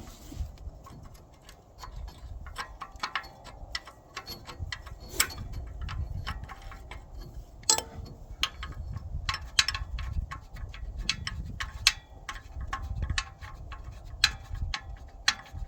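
Irregular metallic clicks and clinks of a hand wrench working a bolt loose, with a few sharper knocks, over a low rumble of handling noise.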